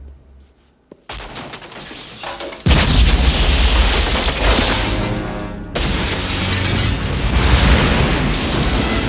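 Film sound effects of an explosion bursting large glass tanks: after a near-silent moment and a single click, a sudden loud blast about three seconds in, followed by a long crashing rush of noise that surges again about six seconds in, with a music score underneath.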